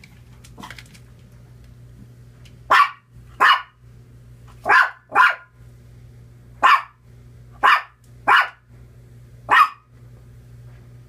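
Dog barking eight times in short sharp barks, some in quick pairs, upset by the thunderstorm.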